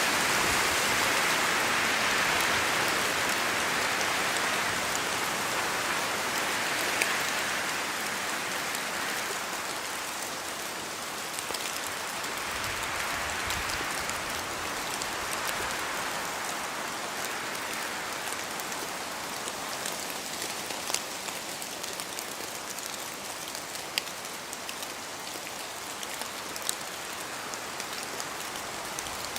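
Steady rain falling through forest trees, with wind swelling and easing in the first half. Large single drops from the branches tick sharply now and then, more often near the end.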